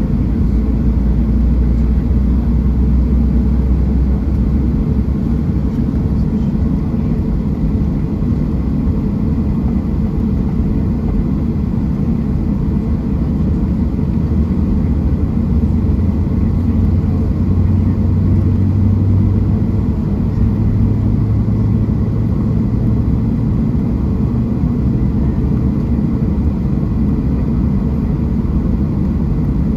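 Cabin noise of a Boeing 737-700 under way: a loud, steady low rumble from its CFM56-7 jet engines and the airframe. The deepest hum moves up a little in pitch about halfway through.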